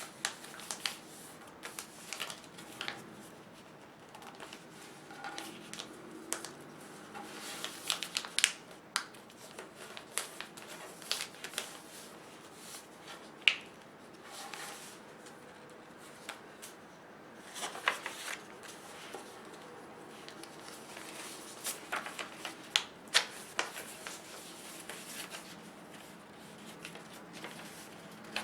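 A sheet of paper being handled, folded and creased by hand against a table: irregular crinkles, rustles and sharp paper clicks.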